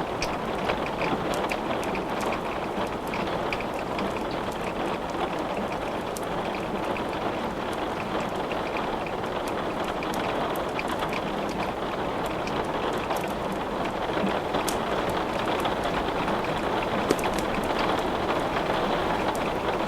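Steady rain falling, with scattered sharp crackles from wood burning in a fireplace.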